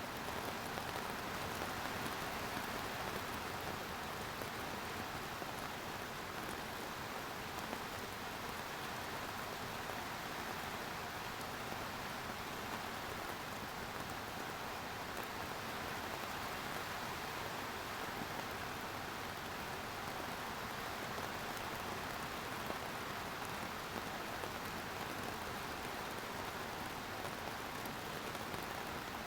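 Steady rain falling and pattering on surfaces, an even hiss of drops without let-up.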